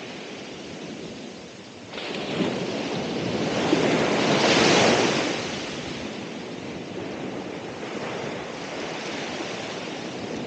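Ocean waves breaking on the shore: a wave crashes about two seconds in, swells to its loudest around the middle, then washes back into a steady surf hiss, with some wind on the microphone.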